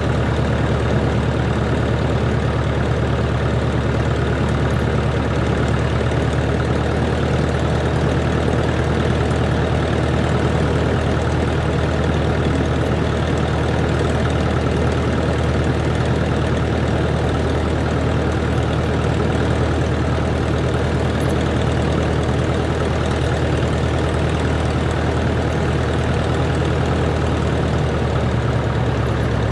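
A Cessna 140's air-cooled flat-four engine and propeller running steadily at low power, with a deep, even drone.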